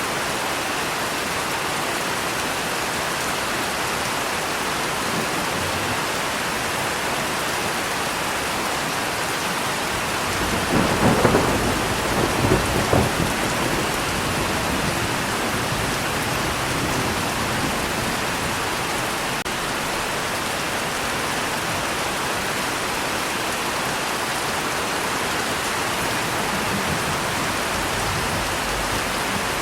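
Steady heavy rain with a roll of thunder about ten seconds in, crackling and rumbling for three or four seconds before fading back under the rain.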